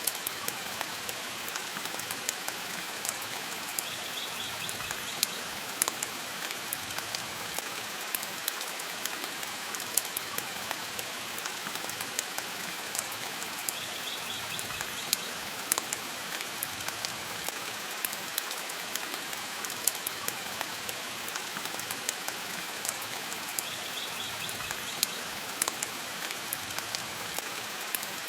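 Steady rain hiss mixed with the irregular sharp pops and crackles of a wood fire burning in a fireplace.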